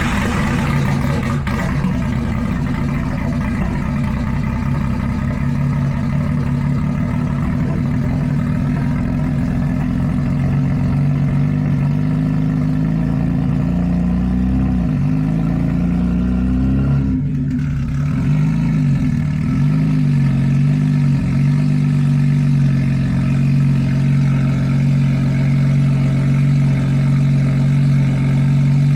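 Hyundai Tiburon's turbocharged 2.7-litre V6 engine idling steadily, its speed wavering slightly up and down for a few seconds around the middle.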